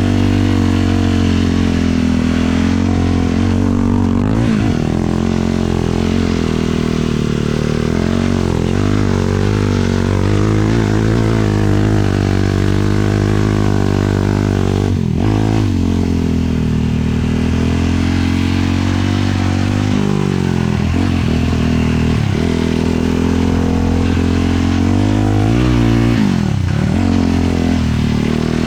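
Single-cylinder 450 sport quad engine running under load, its pitch rising and falling as the throttle opens and closes, with several short dips in revs along the way.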